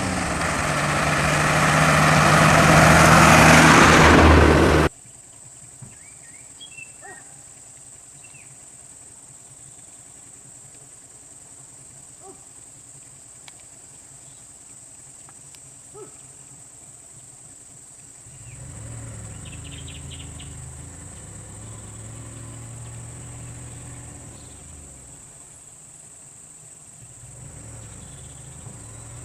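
Vehicle engine running hard and loud, cut off abruptly about five seconds in. After that a steady high-pitched insect drone with a few faint clicks, and a low engine hum from about eighteen seconds in.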